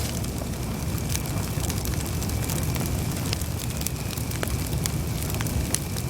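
Campfire burning: a low steady rumble with many scattered sharp crackles and pops.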